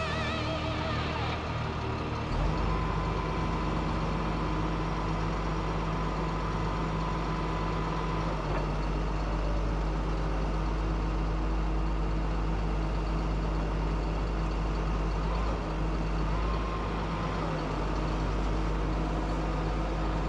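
Flatbed tow truck's engine idling steadily, a constant low hum.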